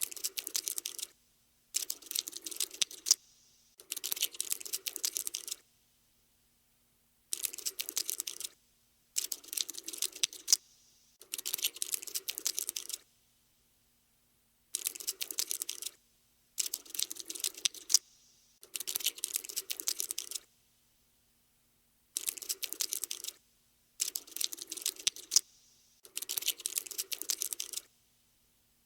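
Cockroach scuttling sound effect: about a dozen bursts of rapid, dry, skittering clicks, each lasting a second or two, with short silences between them.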